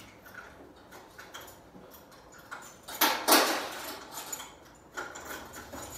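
Handling noise: faint scattered clicks, then a loud clatter of knocks about three seconds in, and another rising near the end.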